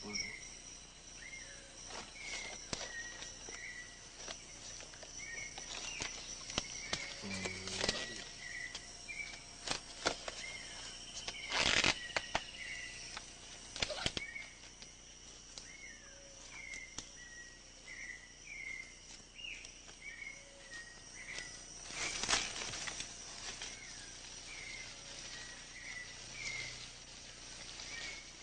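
Rainforest ambience: a bird repeats a short chirping call about once a second over a steady high-pitched insect drone. Sharp knocks come every few seconds, the loudest about twelve and twenty-two seconds in.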